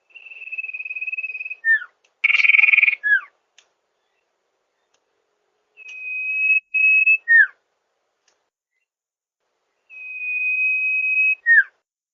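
Sirpu (sirdung) bird song: three phrases a few seconds apart, each a long level whistle ending in a quick downslurred note. The second phrase is broken by a short gap, and a louder, harsher burst follows the first phrase about two seconds in.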